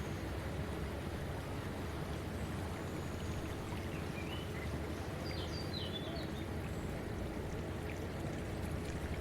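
Steady rushing of flowing water, with a few short high chirps about halfway through.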